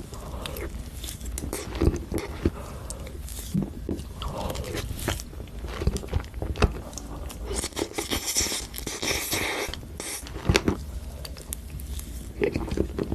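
Close-up eating sounds: a person biting and chewing crunchy food, with irregular sharp crunches throughout and a denser crackling stretch about two thirds of the way in.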